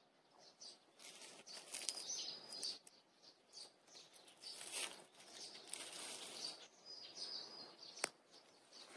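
Faint outdoor ambience: small birds chirping briefly now and then over a soft rustle, with one sharp click about eight seconds in.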